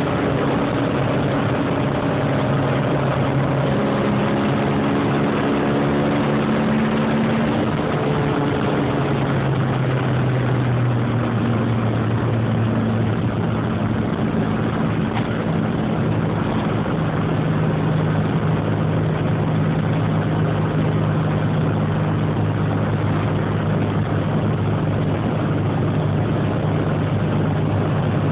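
A Mini's engine and road noise heard from inside the cabin while driving. The engine's pitch shifts a few times in the first dozen seconds, then holds a steady cruise. The engine is new and still being run in.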